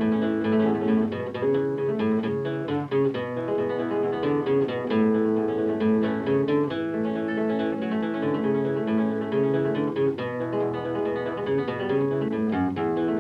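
Acoustic guitar music, briskly strummed and plucked in a flamenco or Latin American style.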